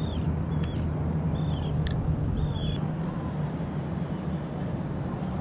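Birds give four or five short, high calls in the first three seconds, over a steady low rumble. A single sharp click sounds about two seconds in.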